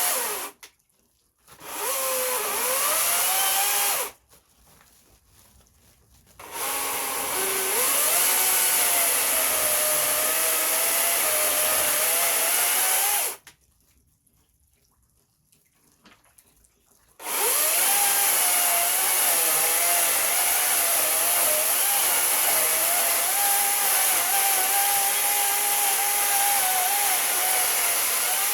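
A handheld electric power tool running in several runs of a few seconds each. It stops and restarts three times, and its motor pitch climbs as it spins up, then wavers and sags a little while it runs.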